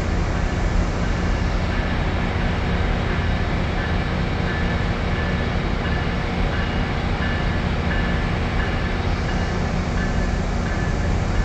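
Amtrak ALC-42 Charger diesel locomotive running as it pulls a passenger train slowly along the tracks. A faint bell-like ding repeats about twice a second from a couple of seconds in.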